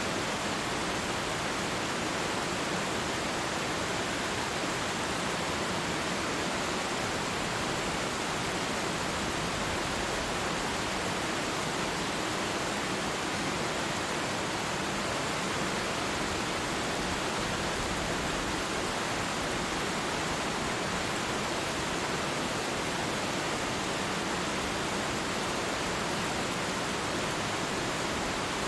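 Falling water of a twin waterfall rushing in a steady, unbroken hiss, with no change in level.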